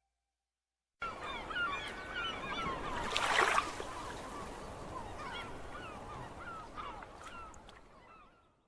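A flock of birds calling: many short, repeated calls over a background hiss, with a brief louder rush about three seconds in.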